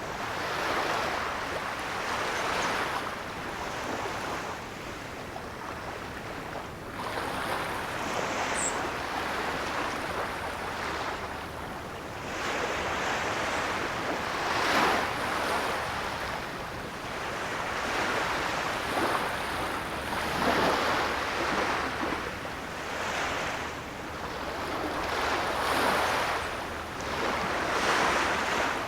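Ocean surf: waves breaking and washing in, each one swelling up and falling away every few seconds.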